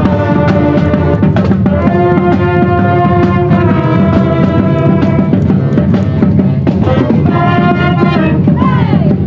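Marching band playing: brass holding a melody over a steady drumline of snare and bass drums, with a falling slide in pitch near the end.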